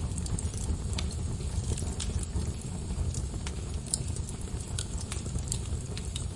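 Log fire in a fireplace crackling: a steady low rumble of burning with frequent, irregular sharp pops and snaps.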